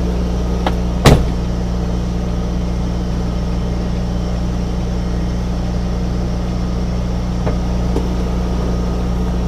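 Semi-truck diesel engine idling with a steady low hum, and a single sharp knock about a second in.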